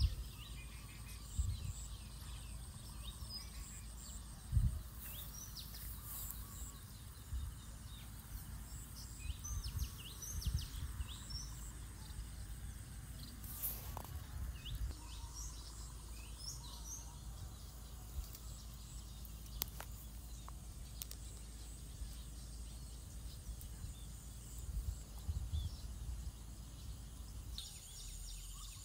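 Birds chirping in short calls scattered throughout, over a steady low background rumble.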